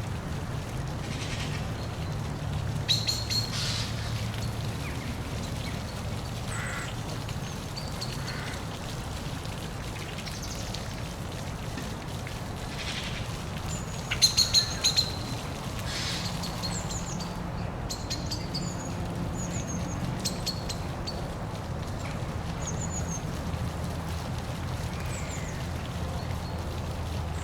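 Steady rush of a park waterfall, with birds chirping and calling over it; the loudest calls come about three seconds in and again about halfway.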